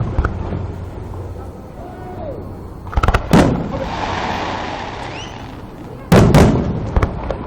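Aerial fireworks bursting: sharp booms about three seconds in and again about six and seven seconds in, with a crackling hiss after the first pair of booms.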